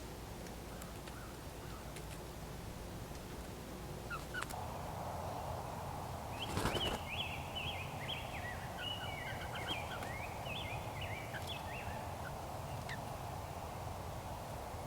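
A wild animal chattering: a rapid, uneven series of short high calls for about six seconds, beginning about six seconds in, with a sharp click near its start.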